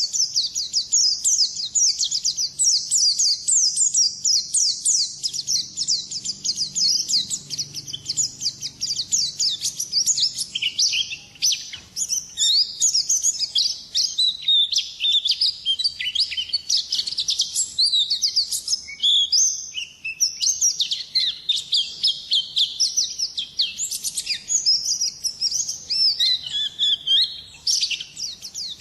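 White-eye (pleci) singing its 'ngalas' song: a long, unbroken run of rapid, high chirping notes that barely pauses.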